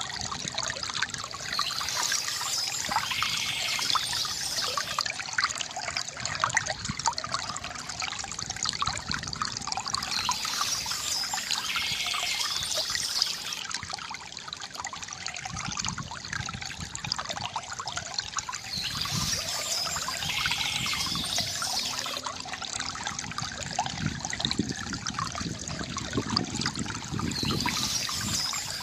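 Shallow river water gurgling and trickling steadily, with high bird chirping that comes in for a few seconds about every nine seconds.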